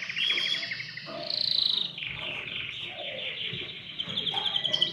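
Domestic canary singing: short changing trill phrases, then from about two seconds in one long, fast, even trill.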